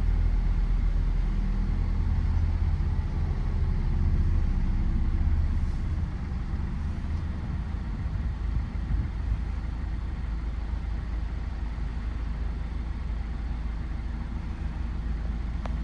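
2021 Mazda MX-5's four-cylinder engine idling after a cold start, heard inside the cabin as a steady low hum. The level drops a little about six seconds in, then holds steady.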